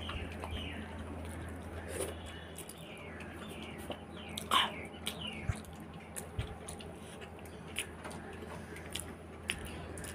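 Close-miked eating sounds: a person chewing a mouthful of rice with small wet mouth noises, and soft clicks of fingers against a plate. A short chirp sounds about halfway through.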